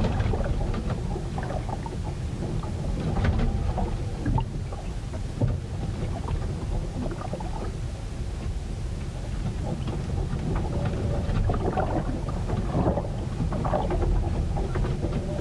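Storm weather heard aboard a ship: a steady, heavy low rumble of wind and water, with scattered knocks and short creaks from the vessel.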